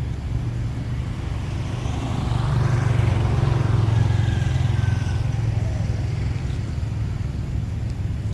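A motor vehicle passing by: a steady low engine rumble that swells in the middle and then fades away.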